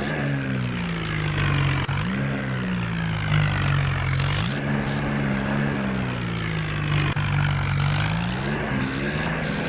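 Mini tractor running steadily, its engine note sagging and recovering in pitch several times as it works.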